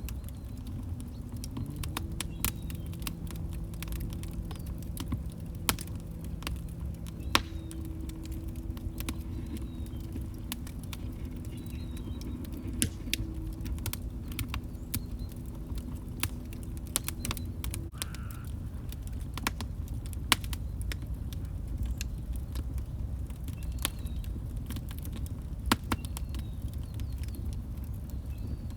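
Log fire crackling and popping in a fireplace: irregular sharp snaps over a low steady rumble. A faint low steady tone sits underneath for the first two-thirds and stops about 18 seconds in.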